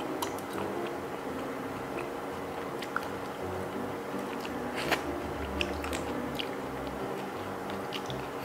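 Close-miked eating of sauce-coated razor clams: chewing and wet mouth sounds with several sharp clicks, the loudest about five seconds in, over soft background music.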